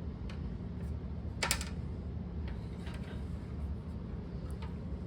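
A few light clicks and knocks of 3D-printed plastic mold pieces being handled and set onto the steel panel, the loudest a short clatter about a second and a half in, over a steady low hum.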